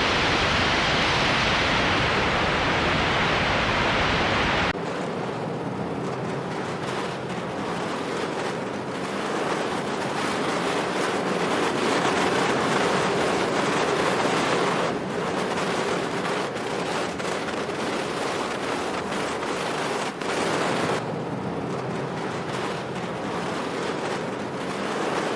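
Blizzard wind blowing: a steady rush of noise that changes abruptly about 5, 15 and 21 seconds in.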